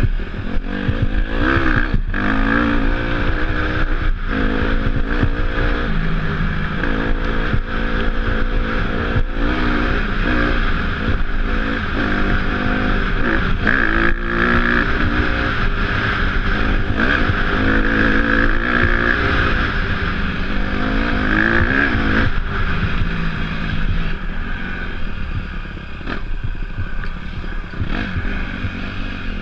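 Off-road motorcycle engine being ridden, its revs rising and falling over and over, with rattles and knocks throughout.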